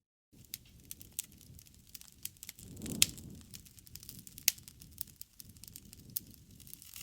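Campfire burning, wood crackling with scattered sharp pops. The loudest pop comes about three seconds in with a brief low rumble, and another sharp pop follows a second and a half later.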